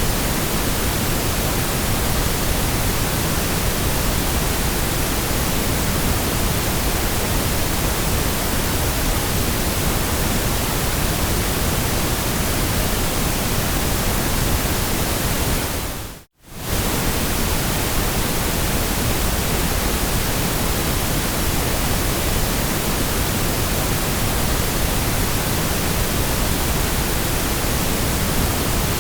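Steady white noise: an even, unchanging hiss spread across all pitches. About sixteen seconds in it fades out to near silence for a moment and comes straight back.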